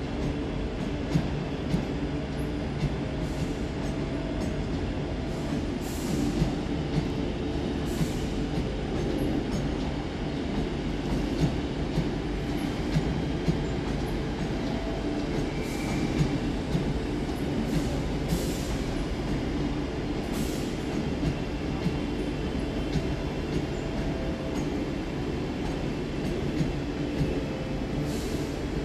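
Two coupled Class 323 electric multiple units running in: a steady rumble of wheels on rail, with sharp clicks at irregular intervals and a brief high squeal about sixteen seconds in.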